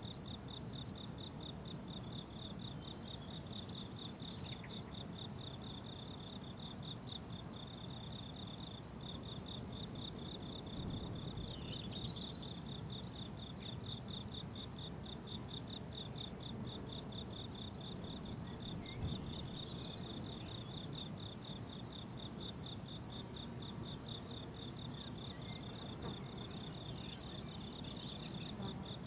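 Crickets chirping in a fast, even rhythm of high chirps, several a second, with a couple of brief pauses.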